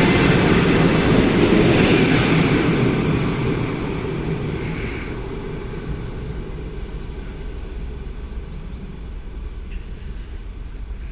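ED9M electric commuter train running, its rumble fading over the first five seconds or so, then going on as a quieter, steady rumble.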